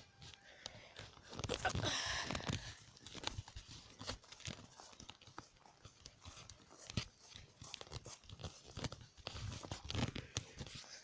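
Irregular crunching and rustling with sharp clicks close to the microphone, loudest in a burst about two seconds in and again near the end.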